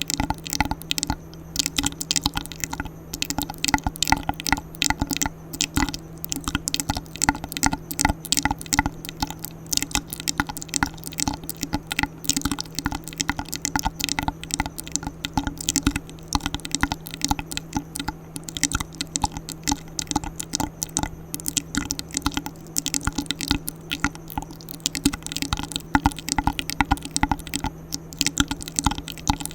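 ASMR mouth sounds: rapid wet clicks and smacks of the lips and tongue, many a second without a break, over a faint steady low hum.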